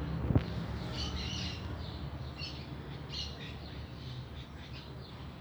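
Small birds chirping: clusters of short, high chirps repeating every second or so over a low rumble, with a single sharp click about half a second in.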